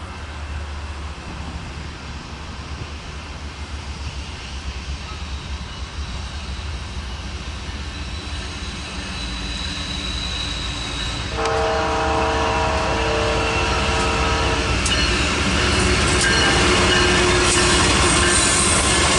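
Freight train's diesel locomotive approaching, its low rumble growing steadily louder. About eleven seconds in, the locomotive's air horn sounds one chord-like blast lasting about three and a half seconds. Then the train comes close, with wheel noise, rail clicks and high-pitched wheel squeal.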